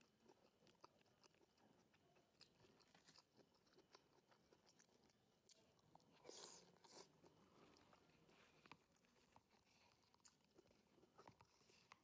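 Quiet close-up sounds of a person chewing food: small wet mouth clicks throughout, with two louder, sharper bites about six and seven seconds in.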